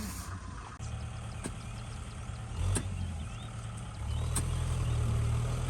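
Single-cylinder diesel engine of a Kubota ZT 155 DI walking tractor running steadily, growing louder about four seconds in, with a few sharp clicks over it.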